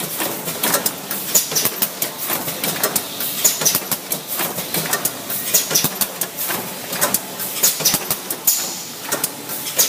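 Freezer-bag packaging machine running, a steady mechanical noise with repeated sharp clacks roughly once or twice a second.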